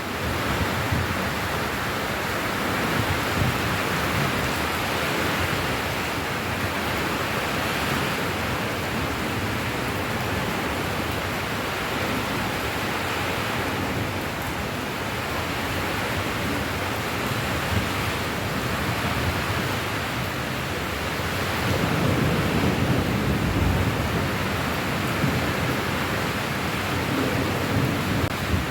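Steady rain falling, a dense even hiss. A low rumble swells briefly about three-quarters of the way through.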